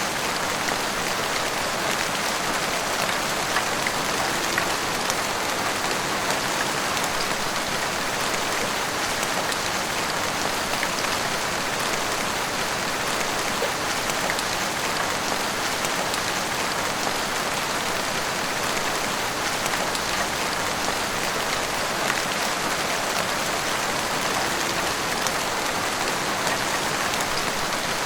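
Heavy rain falling steadily, a dense hiss of drops hitting rooftops and the street, with fine individual drop ticks.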